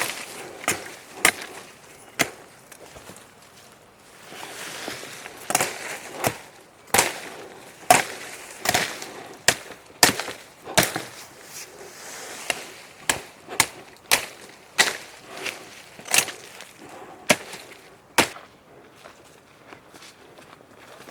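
Wood being chopped and split: a long, irregular run of sharp knocks and cracks, about one a second.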